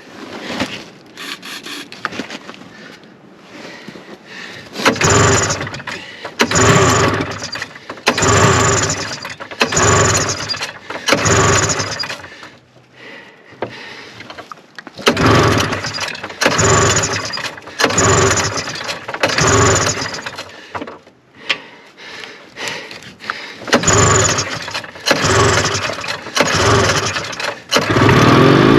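Fan-cooled 340 two-stroke engine of a 1974 Arctic Cat Lynx snowmobile being pull-started by its recoil rope: a series of quick pulls about every one and a half seconds, in three runs with short pauses between them. On each pull the engine tries to fire but does not keep running, as it struggles on five-year-old stale fuel.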